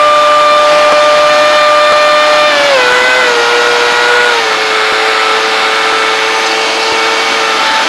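Cessna 150's engine and propeller droning steadily, heard from inside the cabin. The engine note drops in two steps, about three seconds in and again about four and a half seconds in, then holds at the lower speed.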